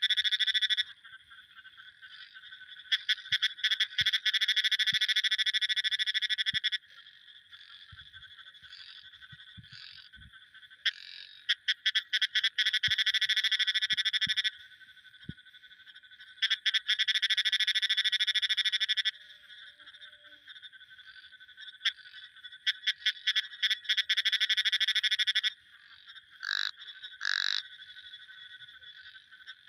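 Frogs calling in bouts of fast, trilled pulses, each bout two to four seconds long, with a steadier, quieter high-pitched chorus continuing in the gaps between bouts.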